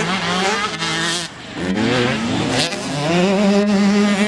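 Several motocross bike engines running hard together, their pitches rising and falling as the riders accelerate and shift. Loudness dips a little over a second in, then builds again.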